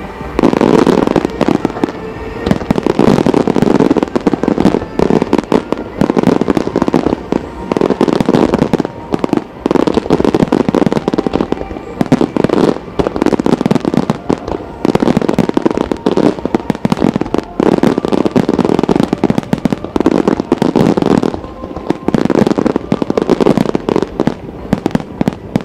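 Aerial fireworks shells bursting in a dense, rapid barrage of bangs and crackles with only brief lulls, over music playing along with the display.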